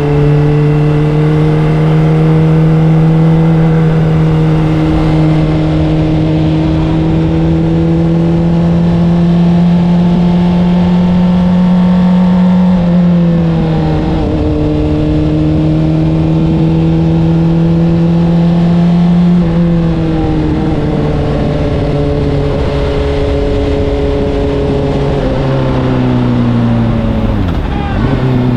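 Honda CBR600RR inline-four with an Akrapovic exhaust running at steady cruising revs, its note slowly climbing. The pitch dips briefly twice, about halfway through and again about two-thirds through. Near the end the revs fall away as the bike slows.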